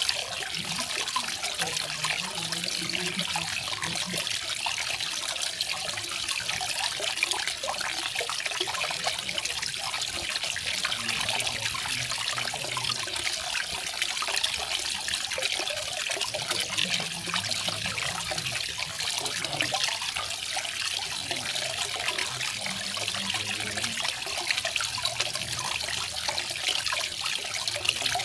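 Garden waterfall: water splashing and trickling steadily over rocks, a continuous bright rush with no pauses.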